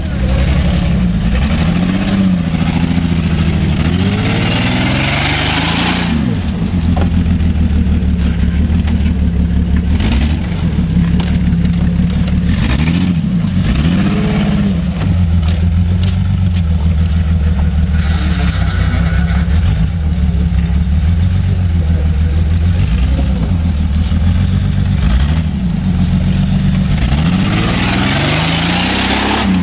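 A motor vehicle engine runs throughout, its pitch rising and falling several times as it speeds up and slows down. A rushing hiss swells twice, about five seconds in and near the end.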